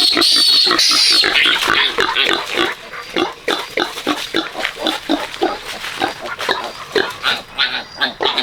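Pigs calling: a loud, high-pitched, wavering squeal for about the first second, then many short grunts and squeaks, several a second.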